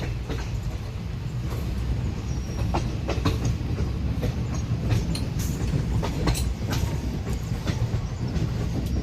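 Indian Railways train running along the track, heard from on board: a steady low rumble with irregular clicks and knocks from the wheels passing over rail joints.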